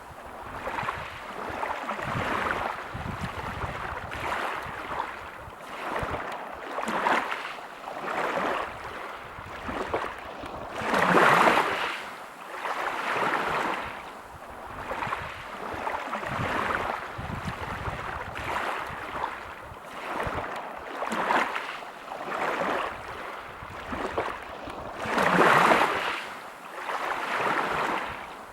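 Sea waves breaking and washing over a pebble beach, a hiss that swells and fades every second or two. Two bigger waves break loudest, about eleven seconds in and near the end.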